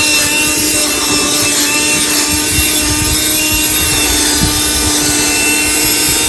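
Cordless handheld vacuum cleaner running steadily, its motor giving a constant whine over a rushing airflow noise.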